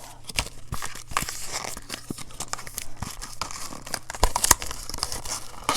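A product's packaging being torn open and crinkled by hand: an irregular run of tearing, rustling and crackling with scattered clicks, and a couple of sharper snaps about four seconds in.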